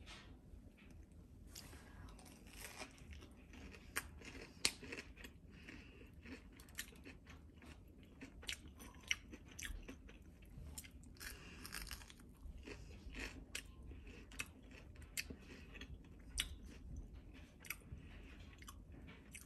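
A person chewing and biting into a crispy battered fish-sausage corn dog, with many irregular crisp crunches from the fried breading.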